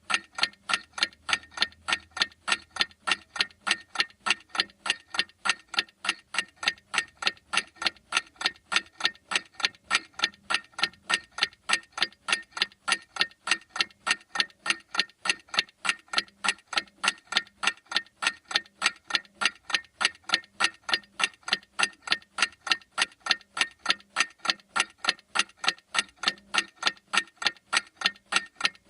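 Clock ticking steadily: sharp, evenly spaced ticks, a regular tick-tock that never changes pace.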